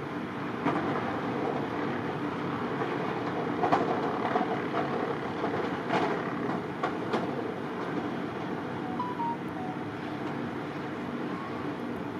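A vehicle engine running steadily under a broad rumble, with a few sharp knocks or clanks about four, six and seven seconds in.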